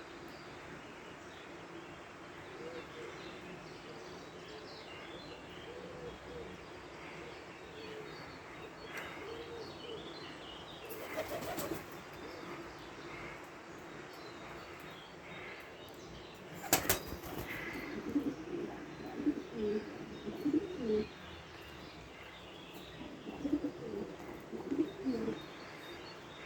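Birds calling: low, wavering calls that come in clusters and grow busier in the second half, with scattered higher chirps. There are two short noisy bursts, one near the middle and a louder one about two-thirds of the way through.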